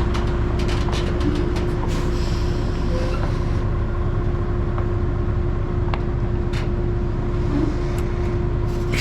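Semi truck's diesel engine running steadily as the truck pulls forward, a constant drone with a run of light clicks in the first two seconds and a few more later.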